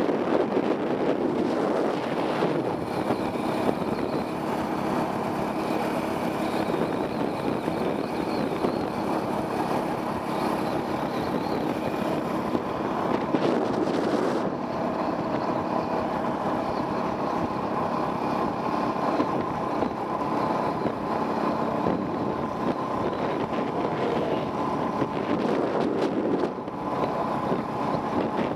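Enduro dirt bike engine running along a trail, its pitch rising and falling a little with the throttle, under wind buffeting a helmet-mounted camera's microphone.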